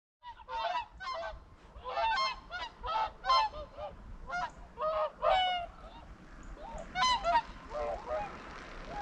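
A flock of swans calling in flight: a rapid, overlapping series of honking calls that thins out near the end as wind noise takes over.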